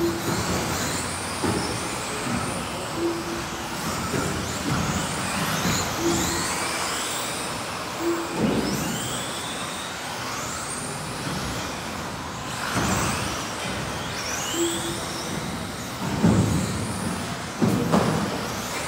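Several electric off-road RC cars racing, their motors whining in rising and falling sweeps as they speed up and slow down around the track. Short beeps come every few seconds, and a few dull knocks are heard near the end.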